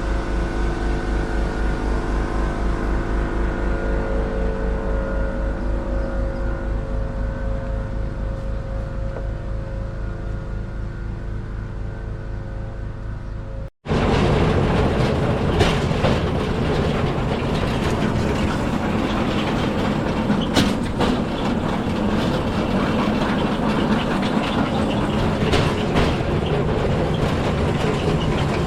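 Steady humming tones over an evenly pulsing beat fade slowly and cut off about halfway. Then a rail bike's steel wheels rumble along the old railway track, with scattered sharp clicks.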